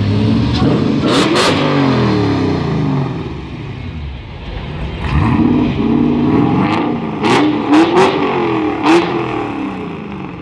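Car engines revved hard several times as cars pull away, each rev rising and dropping in pitch, with several sharp cracks, the loudest in the second half.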